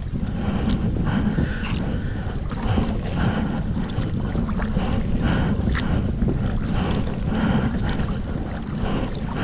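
Wind buffeting the action-camera microphone in a low rumble, with a kayak paddle splashing in choppy water in repeated strokes about every second.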